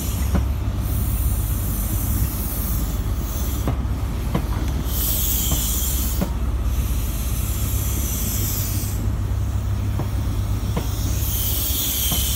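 Passenger train moving past at close range: a steady low rumble with scattered sharp clicks, and bursts of high hiss near the start, in the middle and near the end.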